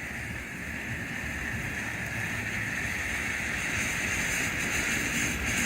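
Magnus Fireworks Ocean Liner ground fountain spraying sparks with a steady hiss that slowly grows louder, turning brighter near the end as a later stage fires.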